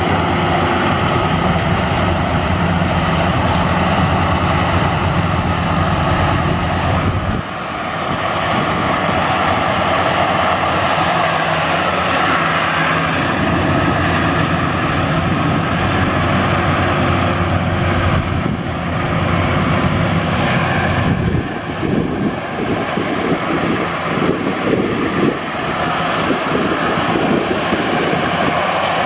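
Maxxi Bimo rice combine harvester running steadily at working speed. Its engine briefly dips about seven seconds in and runs unevenly for a few seconds past the twenty-second mark.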